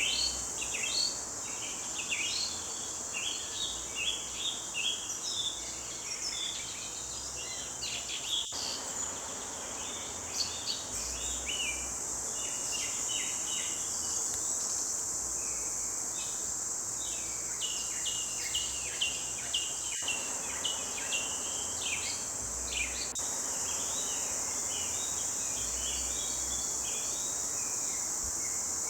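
Forest dawn chorus: several songbirds chirping and trilling in quick short phrases, over a steady high-pitched insect drone.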